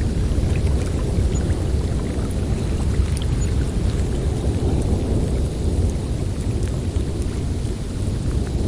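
Snowstorm wind blowing steadily, a deep rumbling rush with faint scattered ticks above it.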